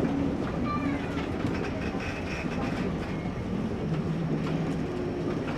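A railway train running along the track, a steady rolling noise with wheel clatter and some engine tones.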